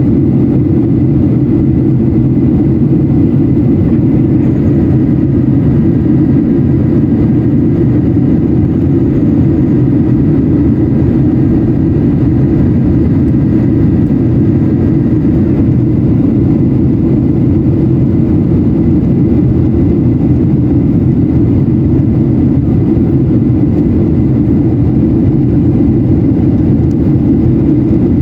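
Steady cabin noise of a Boeing 737-800 airliner in descent: a low, even rumble of its CFM56 engines and rushing air. A faint high whine sits over it through the first half.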